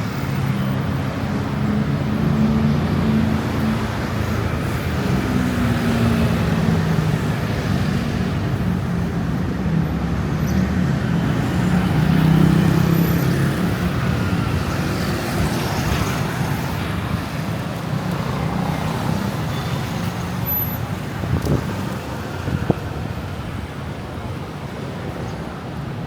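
Road traffic on a city street: a steady wash of passing vehicle engines and road noise, swelling about halfway through, with a couple of short sharp knocks near the end.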